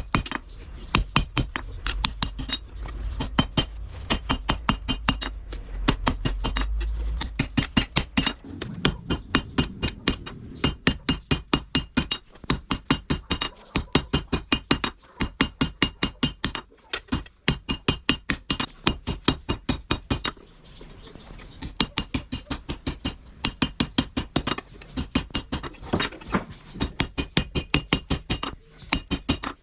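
Hammer blows on steel at an anvil while forging a thick truck spring. The strikes come several a second in runs with short pauses, each ringing briefly. A low rumble sits under the strikes from about two to seven seconds in.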